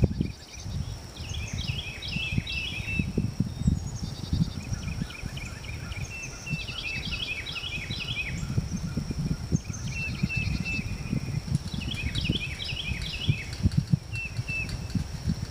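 Songbirds singing: every few seconds a phrase of quick, falling chirped notes, with shorter repeated notes in between. Under it runs a low gusty rumble and a steady thin high tone.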